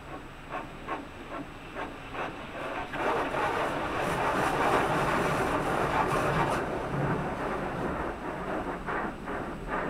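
Automatic car wash working over the car, heard from inside the cabin: sharp slaps about twice a second at first, a loud dense rush for a few seconds in the middle, then separate slaps again near the end.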